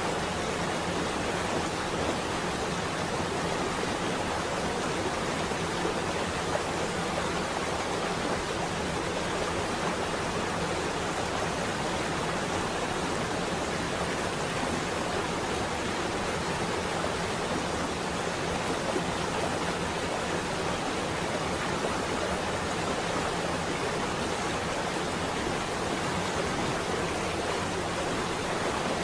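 Steady rain on a window: an even, unbroken hiss.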